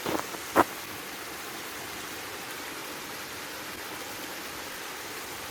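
Steady rushing outdoor background noise, with two short knocks about half a second apart near the start, the second one louder.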